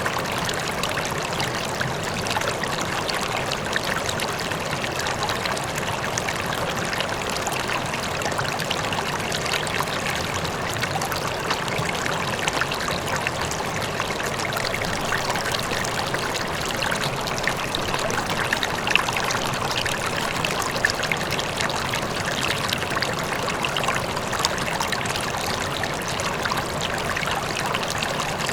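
River water flowing steadily, a continuous rush with small splashes and trickles, backed by a faint distant waterfall.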